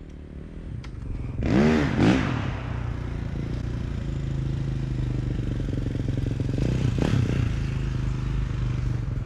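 Dirt bike engine running at a steady pitch while riding, with a louder swell of revving about one and a half seconds in and a brief rev again about seven seconds in.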